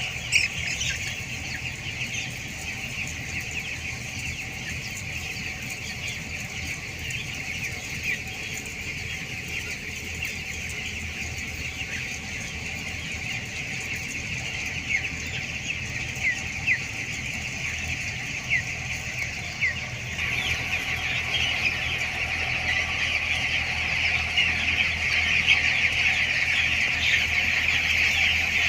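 A large flock of two-week-old broiler chicks peeping and chirping together in a dense, continuous chorus that grows louder in the last third, over a steady low hum.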